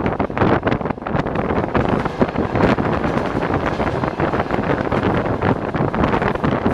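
Passenger train carriage running at speed: a steady rumble and rattle full of irregular knocks and clatter from the wheels on the track, with wind buffeting the microphone.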